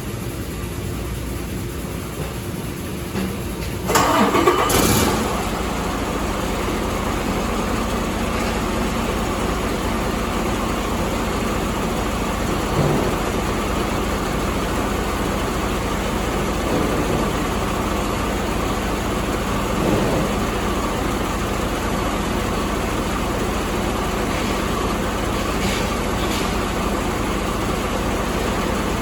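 2017 Detroit DD15 inline-six diesel engine starting: it catches about four seconds in with a brief loud burst, then settles into a steady idle.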